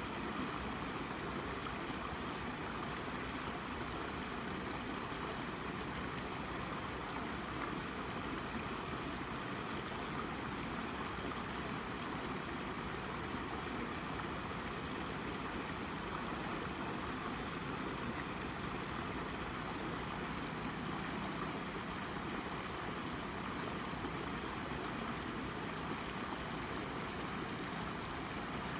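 Small brook babbling and trickling over a rock, a steady even flow of water.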